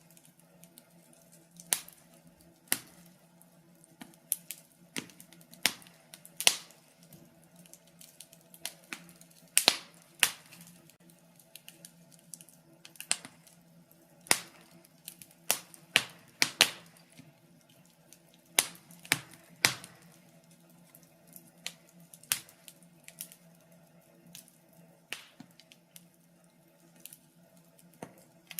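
Wood fire crackling in a fireplace: irregular sharp pops and snaps, sometimes two or three in quick succession, over a faint steady low hum.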